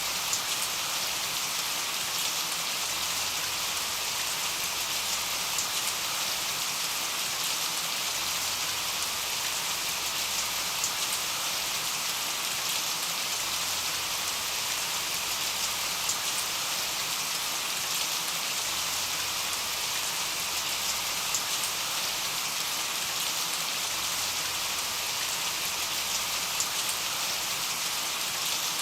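Steady rain falling on a window: a dense, even hiss with occasional sharper drop taps.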